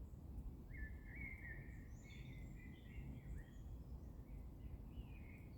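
Steady rain noise, faint and low, with a songbird singing a varied chirping, warbling phrase over it from about a second in.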